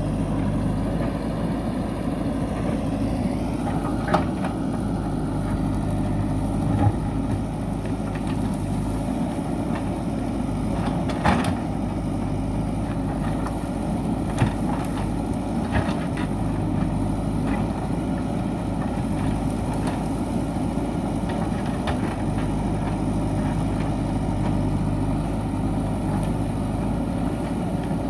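JCB backhoe loader's diesel engine running steadily, with a few short sharp knocks in the first half of the stretch.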